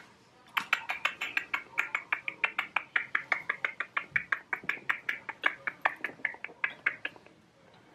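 Pet hamster crunching a dry treat up close, a quick steady run of sharp crisp clicks at about six a second that stops shortly before the end.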